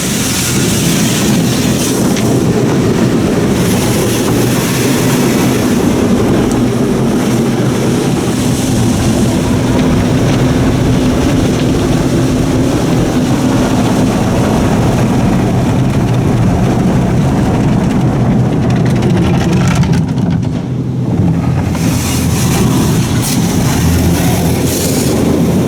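Soft-touch automatic car wash at work, heard from inside the car: cloth brushes and mitter curtains scrubbing over the body while water sprays, a dense, steady rushing and churning. The high spray hiss cuts out for a couple of seconds near the end, then comes back.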